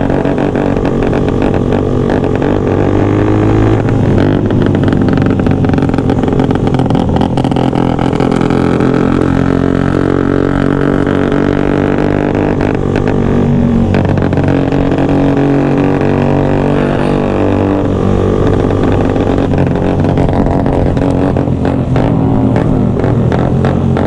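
Motorcycle engines running, with the engine pitch shifting up and down now and then.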